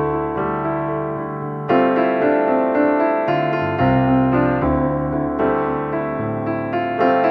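Background piano music: slow chords and melody notes, a new chord struck every second or two.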